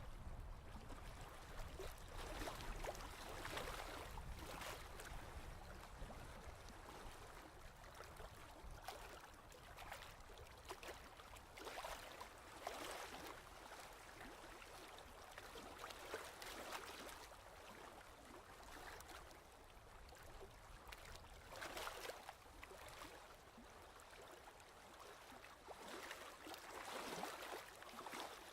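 Faint ocean waves washing ashore, the surf swelling and fading every few seconds.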